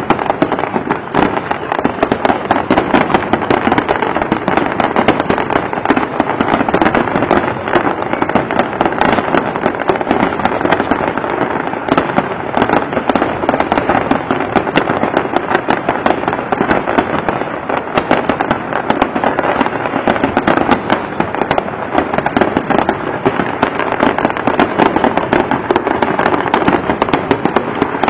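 Aerial fireworks display going off in a dense, continuous barrage of many overlapping bangs and crackles from bursting shells.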